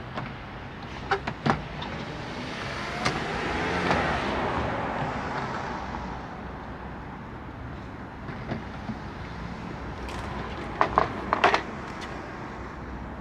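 A car passes by, building to its loudest about four seconds in and fading away. Sharp clicks or knocks come singly early on and in a quick cluster of four or five near the end.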